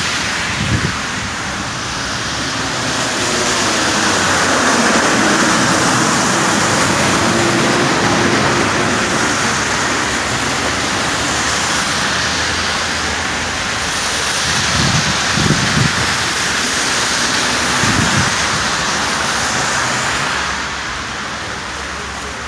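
Traffic on a slushy street: tyres hissing steadily through wet slush, with a vehicle engine running low underneath.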